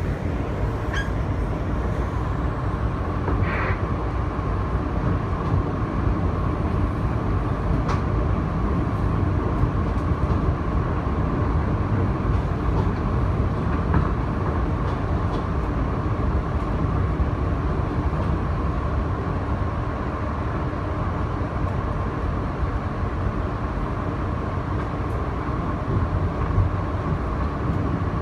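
Interior of an R160B Siemens subway car running along the track: a steady rumble of wheels on rail with a thin steady tone above it and a few faint clicks.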